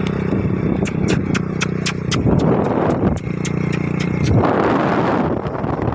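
Motorcycle engine running steadily while riding, with a quick run of sharp ticks for a few seconds and a rush of noise just after the middle.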